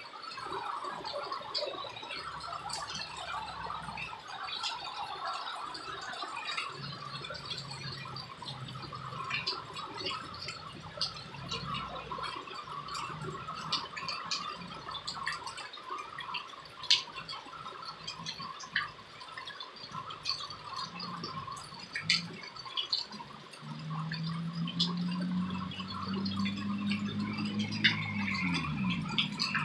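Light rain dripping, with scattered drops ticking. A low droning hum comes in about three-quarters of the way through and bends down in pitch near the end.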